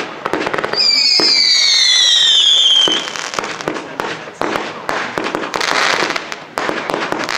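Fireworks display: a rapid run of bangs and crackling bursts. About a second in, a firework whistle sounds for about two seconds, falling steadily in pitch.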